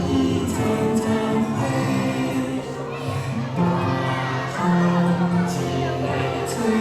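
Singers performing a Taiwanese Hokkien children's song over instrumental backing.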